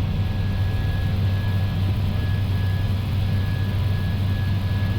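Steady flight-deck noise of an Airbus A320 climbing out: a constant low drone of engines and airflow, with a faint high steady whine over it.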